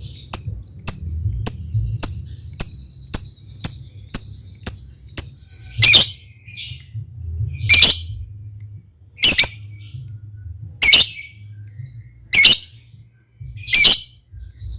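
Lovebird calling: a quick run of short, sharp ticking chips, about two or three a second, then from about six seconds in louder harsh chirps, one every second and a half. These are the ticking calls used to set other lovebirds calling.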